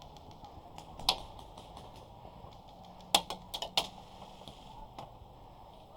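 Scattered airsoft gun shots, sharp cracks: one about a second in, then a quick cluster of three or four around three seconds in.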